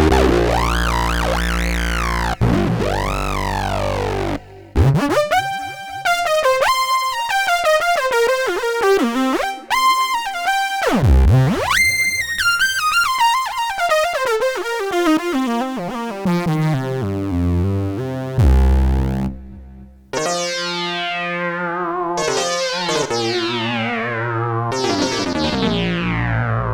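Kurzweil K2500R synthesizer playing factory presets dry, one after another. First a sustained sound with a slowly sweeping filter over a low bass; from about five seconds in, runs of quick, bright stepped notes; and near the end, repeated notes whose brightness falls away on each one.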